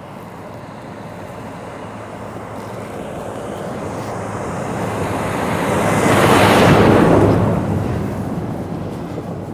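A lorry driving past: its engine and tyres grow louder, peak about two-thirds of the way through, then fade as it moves away.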